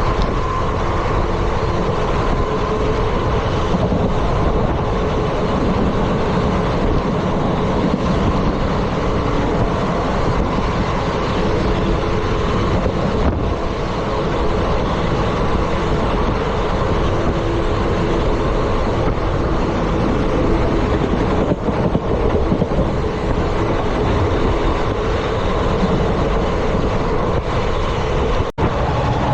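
Indian Railways ICF passenger coach running at speed: a steady, loud rumble of wheels on the track with running noise. There is a momentary dropout near the end.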